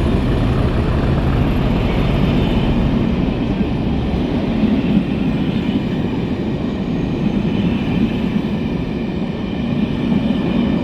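Train pulling away: a steady, loud rumble of the train and its wheels on the rails.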